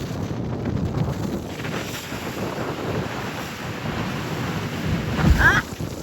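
Wind buffeting the microphone on a moving boat, a steady rough rumble, with a brief louder bump about five seconds in.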